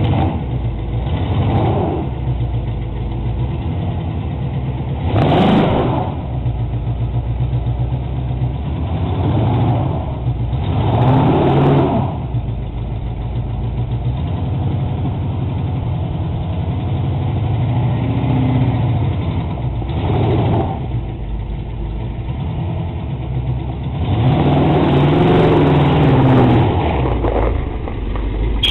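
1979 Pontiac Trans Am 6.6-litre V8 running on its first start after sitting about five years, idling with about five blips of the throttle. The longest rev comes near the end.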